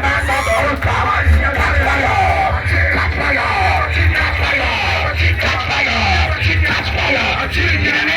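Church music with a steady deep bass under many voices yelling and singing at once, the sound of a congregation praying and praising aloud. The bass drops out near the end.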